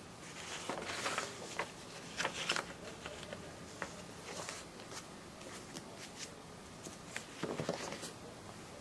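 Paper rustling as a folded brochure and the pages of a ring binder are handled and turned, in short flurries from about half a second to two and a half seconds in and again near the end.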